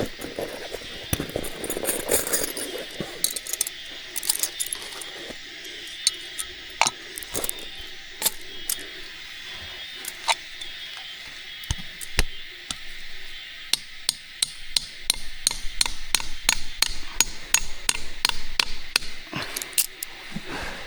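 Sharp knocks, struck one after another: scattered at first, then coming quickly, several a second, from a little past the middle on.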